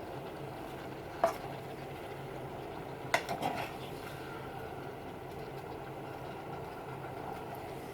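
A cooking utensil knocking against a pan while stir-fried vegetables are stirred: one sharp knock about a second in and a quick cluster of knocks around three seconds in, over a steady low hum.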